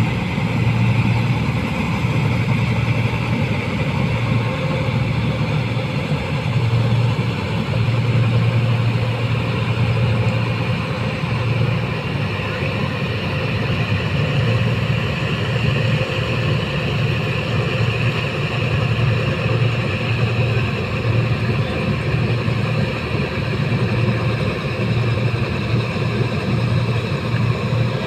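Rice combine harvester's engine running steadily under even load, a constant low drone that holds its pitch throughout.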